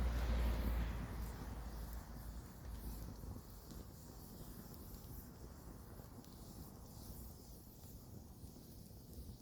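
Campfire burning with a faint steady hiss and scattered small crackles; a low rumble at the start dies away over the first two or three seconds.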